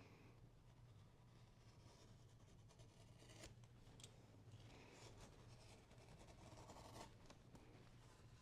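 Near silence: faint scratching and rubbing of hand work on leather, with a few light taps, over a low steady hum.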